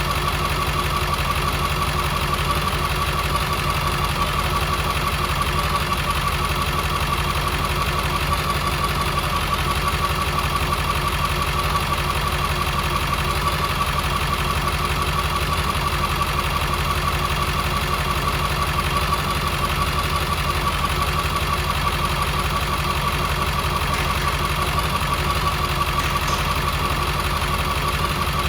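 2001 International T444E 7.3-litre V8 turbo-diesel engine idling steadily, with a constant whine over the diesel clatter.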